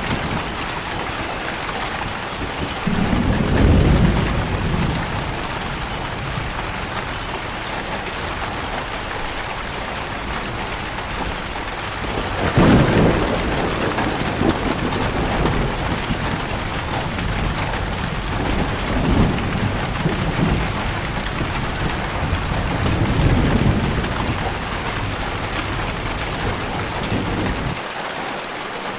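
Steady rain falling, with low rolls of thunder swelling several times: about three seconds in, loudest near the middle, and twice more later.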